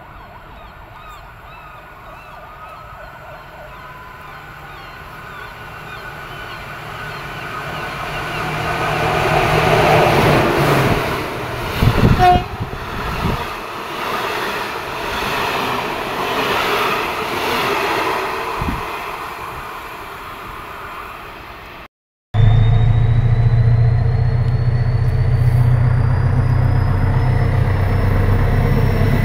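A passenger train rolls past a platform, the rumble of wheels on rails building up, with a brief loud peak partway through, and then fading. After a sudden cut, a diesel locomotive's engine runs close by with a steady deep drone and a thin rising whine above it.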